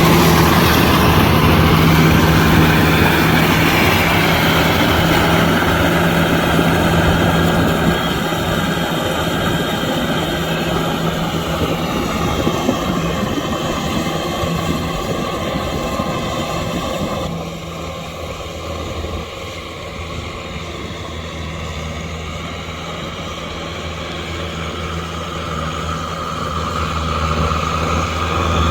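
Kubota M6040SU tractor's diesel engine running steadily while it pulls a rotavator through mud. It grows fainter a bit past halfway and louder again near the end.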